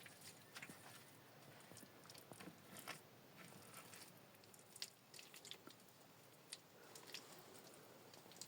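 Faint, irregular clicks and crackles over a low hiss.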